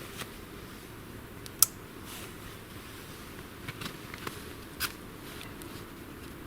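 Small campfire of wet kindling crackling, with a handful of sharp pops, the loudest about one and a half seconds in and several smaller ones a few seconds later, over a low steady hiss.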